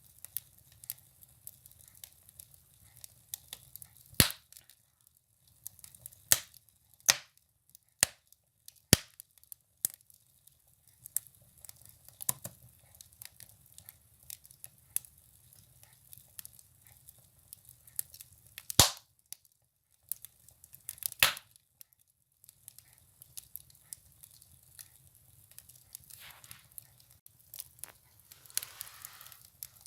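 Firewood burning in a wood stove: steady small crackles with sharp, irregular pops, the loudest about 4, 6, 19 and 21 seconds in. A soft hiss rises near the end.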